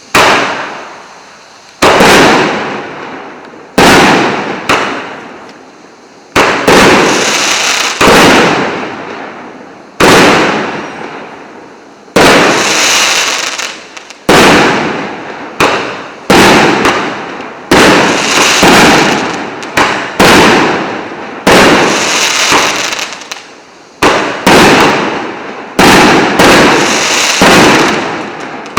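A 19-shot, 1.2-inch consumer fireworks battery firing its shots one after another, one every second or two. Each sharp bang dies away over a second or so, and several are followed by a longer crackling hiss.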